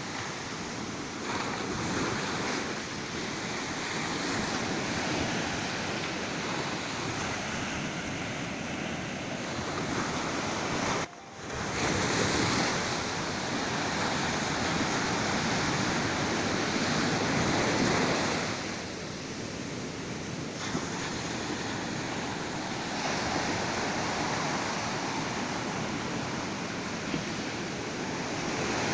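Ocean surf washing onto a beach in a steady rush that swells and eases, with a brief drop-out about eleven seconds in.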